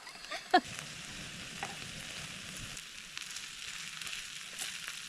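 Food sizzling on a hot griddle: a steady frying hiss with small crackles.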